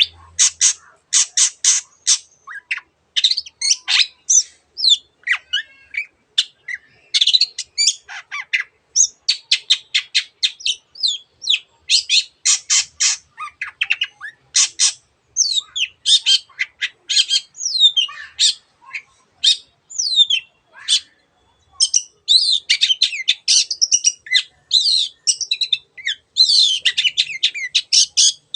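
Long-tailed shrike (cendet) singing a continuous, varied song: fast harsh rasping chatters and squawks alternating with short whistled notes that slide up and down, with imitations of other birds' calls worked in.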